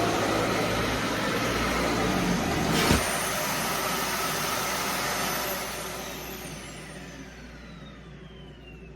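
Vacuum cleaner running, switched off with a click about three seconds in; its motor then winds down, the noise fading under a falling whine.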